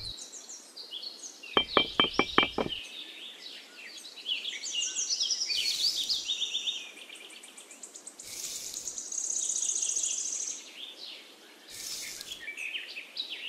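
Birds chirping and trilling in quick, high, overlapping calls. A quick run of about six sharp taps comes about two seconds in.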